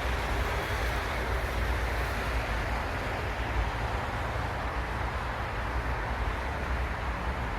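Steady outdoor background noise with a strong low rumble and an even hiss, unchanging throughout.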